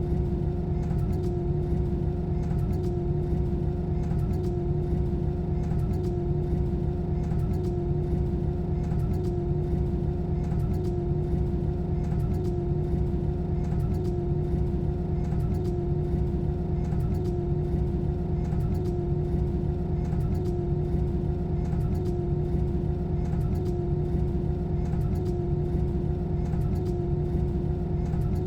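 Steady jet-airliner cabin drone from inside an Airbus A320 in flight: a constant low rumble of engine and airflow noise with two steady hums above it.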